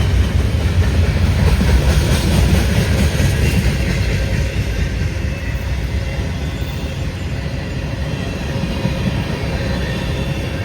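Freight cars of a CSX freight train rolling past, a steady noise of steel wheels on rail that eases slightly toward the end.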